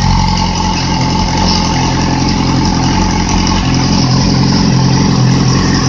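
2008 Yamaha YZF-R6 inline-four engine, out of its frame, running steadily at idle while it warms up in the cold.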